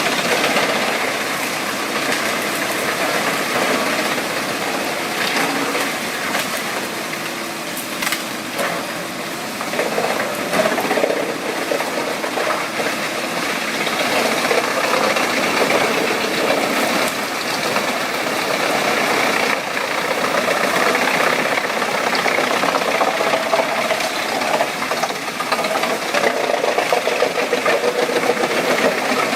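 Engine-driven wood chipper running steadily with a rough, rattling clatter and a few sharp knocks.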